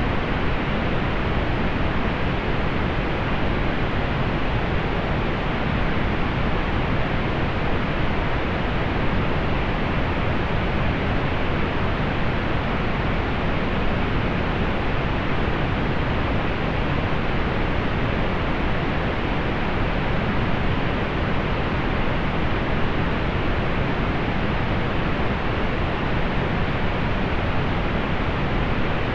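Steady pink noise: an even, unchanging hiss weighted toward the low end, fading off in the highs.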